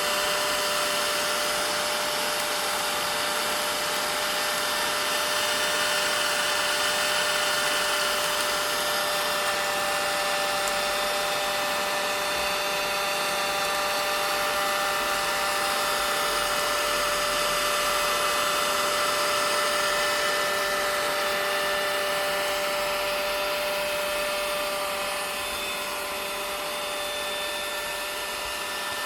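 Vacuum cleaner running continuously: a steady rushing whine with a constant tone under it, easing slightly in loudness near the end.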